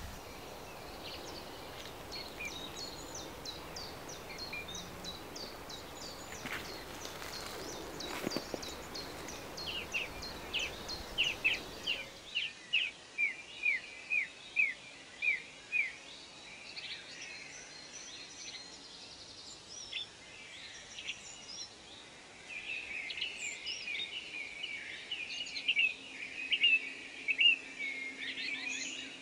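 Small birds singing and chirping, with quick series of short repeated notes and separate runs of falling chirps. A low outdoor background rumble drops away about twelve seconds in, leaving only the birdsong, and a faint steady hum comes in near the end.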